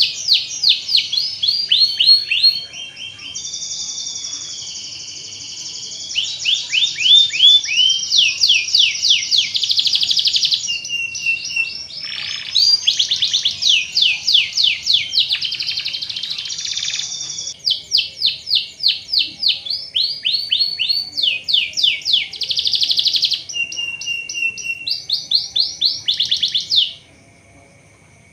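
Canary singing a long, continuous song of rapid trills and rolls: runs of quick falling notes alternating with held whistled tones. It breaks off about a second before the end.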